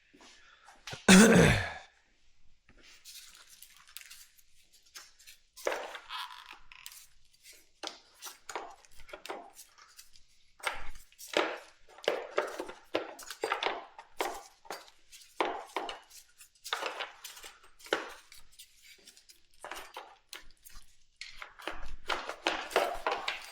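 Hands and tools working a stubborn plastic body piece loose on a motorcycle: a string of irregular plastic clicks, knocks and rattles. One louder, short sound that drops in pitch comes about a second in.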